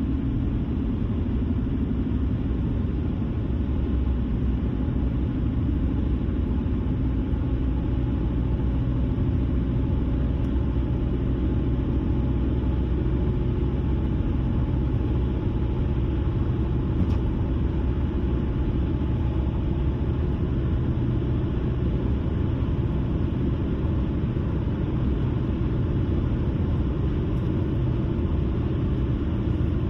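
A car driving at steady speed: an even low rumble of tyres on the road and the engine, with a faint steady hum over it.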